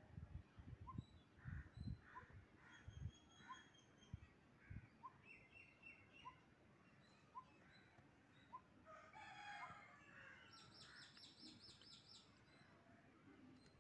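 Faint bird calls: one bird repeats a short rising chirp about once a second while others chirp and trill, with a fuller call a little past the middle followed by a quick run of high notes. A few soft low thumps sound in the first few seconds.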